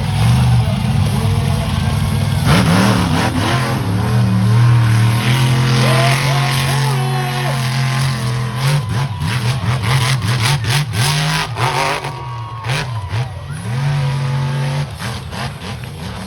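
Monster truck engine revving hard, its pitch rising and falling, with a run of sharp crackles in the middle.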